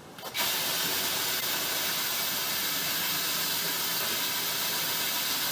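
Cordless drill running steadily, turning the lathe's crank shaft to move the slide, a flat hiss-like motor noise that starts just after the beginning and holds at one level.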